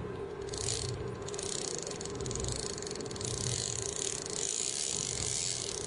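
A big-game fishing reel ticking rapidly in a fast, even ratchet under the load of a large tuna on the line, over a steady low hum.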